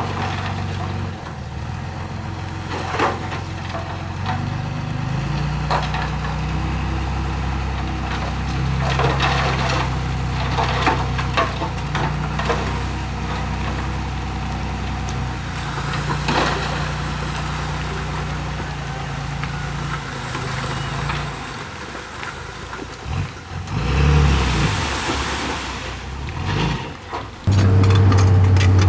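Small bulldozer's diesel engine running under changing load as it pushes soil, with clanks and knocks from the machine and the moving dirt. Near the end a louder engine comes in suddenly close by.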